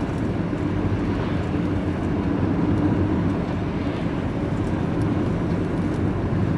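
Vehicle driving along: a steady engine drone with a low hum, under road and tyre noise.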